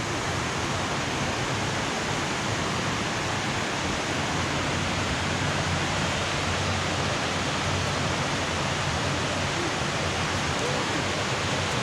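Water rushing over falls in a rocky creek, a steady even rush.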